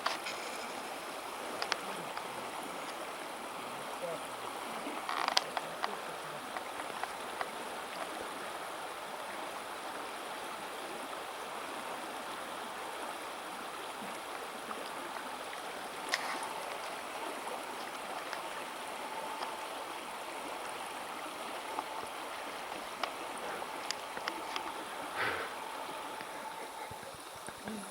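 River water rushing steadily, with a few short knocks scattered through.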